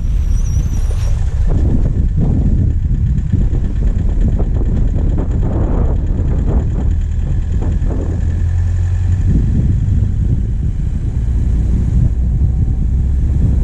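Diesel engine of a vehicle running steadily on a forest track, heard close from a bonnet mount, with a series of knocks and rattles in the first half. A high wavering call fades out about a second in.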